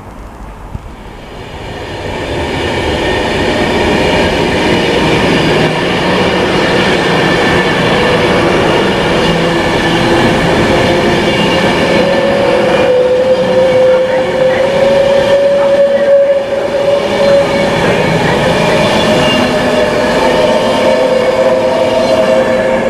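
Class 390 Pendolino electric train passing at speed, a loud rush of wheels and air that builds over the first two seconds and then holds steady. A steady whine runs through it and grows stronger about halfway through.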